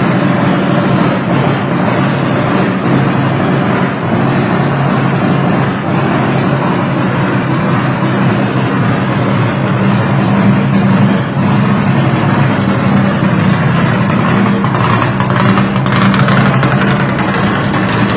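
A Chevrolet 400's engine running loud at a steady, unchanging speed.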